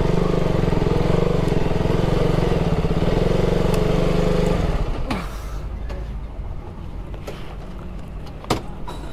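Motorcycle engine running steadily at speed, then about five seconds in the sound drops away with a falling pitch as the bike slows, leaving a quieter, lower engine sound.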